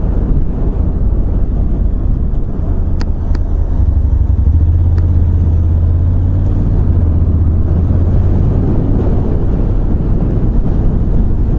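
Motorcycle engine, wind and road noise heard through a microphone inside a full-face helmet, a dense low rumble that swells about four seconds in and holds for a few seconds. A few faint clicks come over it.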